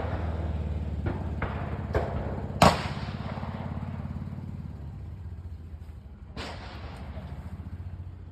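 Several gunshots at a shooting range, sharp cracks with an echoing tail, the loudest about two and a half seconds in, over a steady low hum.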